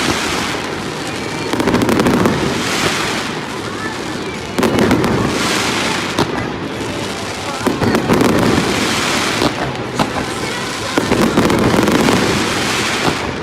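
Fireworks display: aerial shells bursting about every three seconds, each a loud boom that trails off over a second or two, with sharp crackling pops in between.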